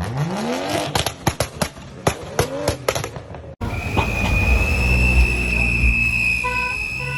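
Car engine revving with a rapid string of sharp exhaust pops and bangs. About halfway through, the sound cuts abruptly to a steady engine rumble with a high, steady whine over it.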